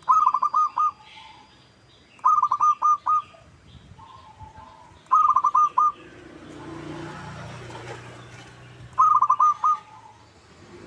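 Zebra dove (perkutut) singing: four song phrases, each a quick run of four or five cooing notes, a few seconds apart. A low rumble swells and fades between the third and fourth phrases.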